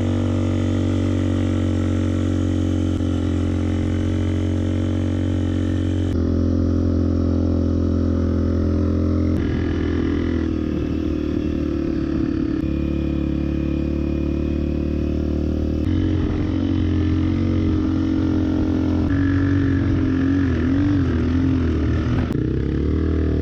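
Honda CRF250F dirt bike's single-cylinder four-stroke engine running at steady riding revs under way on sand. The engine note steps abruptly to a new pitch every three seconds or so and wavers briefly near the end.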